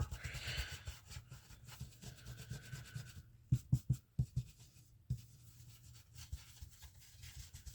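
Ink-blending tool scrubbed over a stencil on paper, a soft rubbing hiss, followed a little over three seconds in by a handful of short light taps and knocks.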